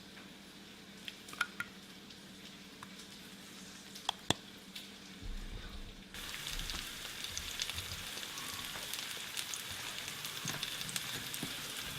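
Chicken thighs frying in oil in a pan, sizzling steadily. The sizzle comes in suddenly about halfway through, after a quieter stretch with a few light clicks.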